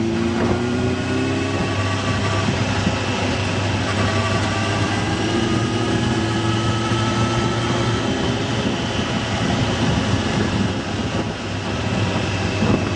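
An engine running steadily, with a steady low hum and higher tones that slowly rise in pitch.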